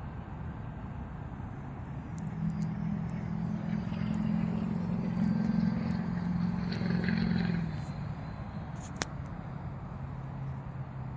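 Small electric motor and propeller of an RC foam plane droning in flight at part throttle. It swells louder for several seconds in the middle as the plane passes nearer, then fades back, with a single sharp click near the end.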